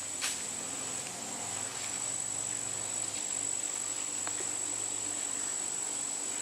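Crickets giving a steady, unbroken high-pitched trill, over a faint low hum and a few light ticks.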